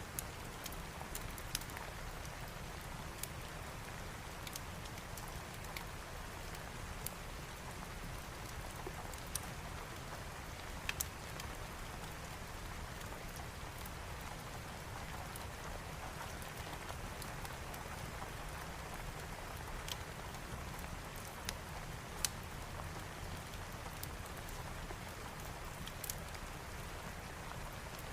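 Steady rain, with a low steady rumble underneath and scattered sharp clicks throughout.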